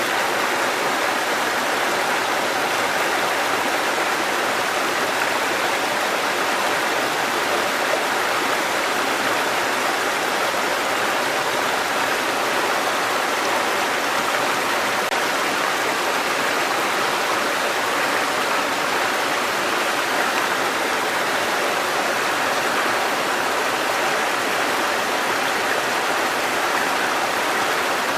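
Mountain stream water cascading over rocks in a steady, unbroken rush.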